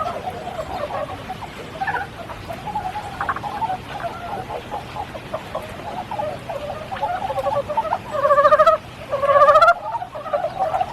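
A chorus of frogs calling, a steady chatter of rapid pulsed croaks, with rain falling lightly underneath. About eight seconds in, one frog gives two louder trilled calls in quick succession.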